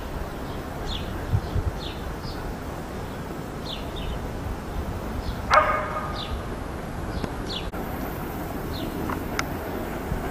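Small birds calling in short, high, falling chirps, repeated every second or so, with a dog barking once about halfway through.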